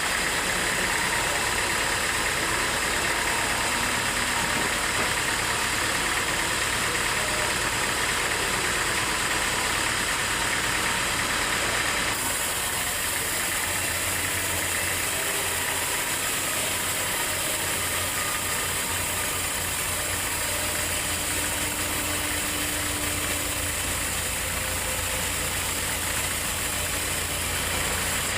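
Sawmill machinery running with a steady engine-like drone. The sound changes abruptly about twelve seconds in, after which a stronger low hum sets in.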